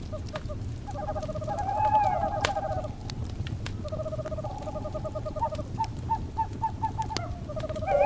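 Wood fire crackling, with sharp pops over a low steady rumble, while owls call repeatedly in pulsed, trilling notes, ending in a run of short quick notes.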